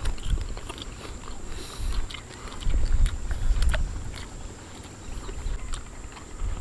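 Close-up chewing and mouth sounds of people eating sushi: scattered wet clicks and smacks over a low, uneven rumble.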